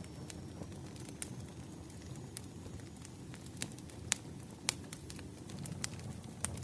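Firewood burning: a steady low rumble with scattered sharp crackles and pops, the loudest a little past halfway.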